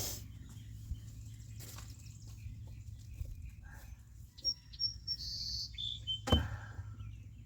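Outdoor garden ambience: a low rumble with scattered light clicks and rustles, a few short high bird chirps stepping down in pitch about four and a half to six seconds in, and one sharp knock just after six seconds.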